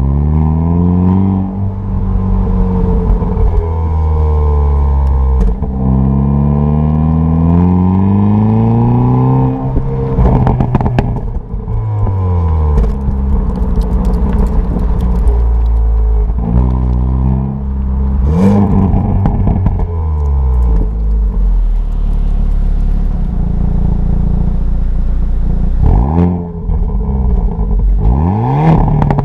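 Hyundai Kona N's turbocharged 2.0-litre four-cylinder engine and sport exhaust in N mode, pulling up through the gears. The pitch climbs and drops at each shift, then falls away as it slows and rises again. A few sharp pops and crackles come between pulls.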